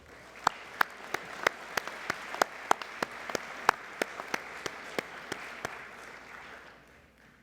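An audience applauding, with one person's sharp claps standing out close by, about three a second. The claps stop a little before the end and the applause fades out.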